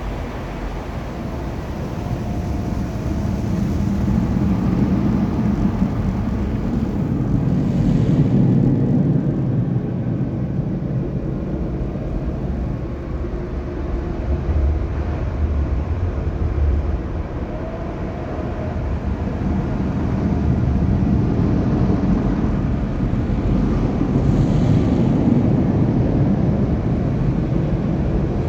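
Automatic car wash tunnel machinery running: a steady low rumble of motors, brushes and water that swells and eases every several seconds.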